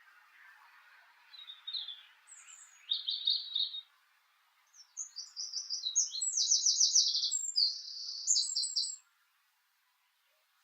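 Songbird singing: short phrases of quick high notes about one and a half and three seconds in, then a longer run of varied, rapid trills from about five to nine seconds in.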